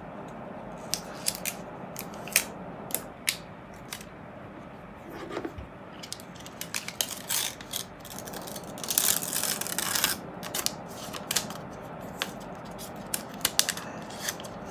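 Packaging being cut and torn open by hand: a run of sharp clicks and snips, with a longer rustling tear about nine seconds in.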